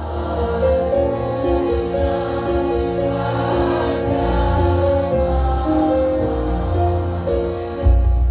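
Women's choir singing held notes that step from pitch to pitch, over a steady low bass.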